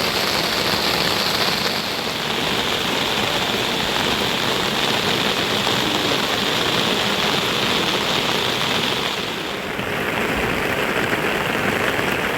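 Steady rain falling, an even hiss throughout; a little under ten seconds in, its tone shifts and the highest part of the hiss drops away.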